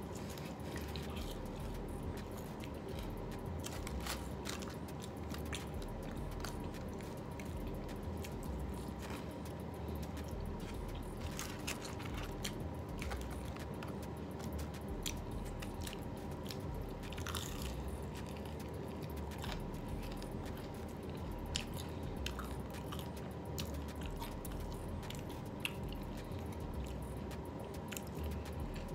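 Close-up eating sounds of chicken wings being bitten and chewed: a constant run of small irregular mouth clicks and crunches, over a faint steady background hum.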